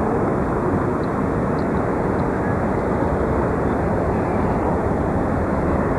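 Steady rumble of a pickup truck driving: engine and road noise heard from inside the cab, with no distinct events.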